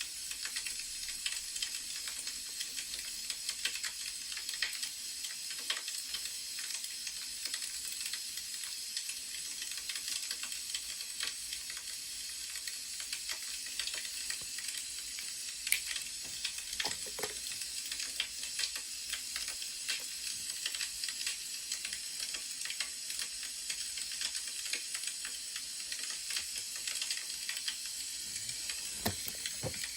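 Wood fire crackling: a steady hiss with frequent small pops and a few sharper ones.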